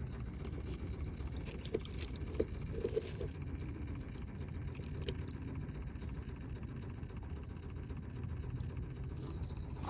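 Steady low rumble of wind buffeting the microphone, with a few light clicks and taps in the first half.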